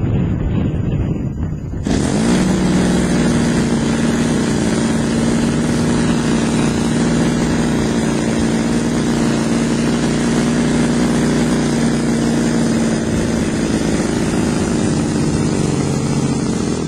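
Twin-cylinder gas engine of a large RC model airplane starts sounding abruptly about two seconds in and runs loud at a steady speed, its needle valves opened to 1.5 turns. Wind noise on the microphone comes before it.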